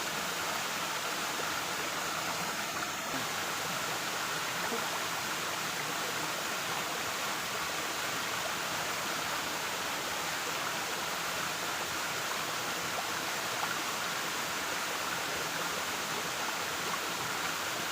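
Waterfall: water falling and rushing steadily, an even noise that does not change in level.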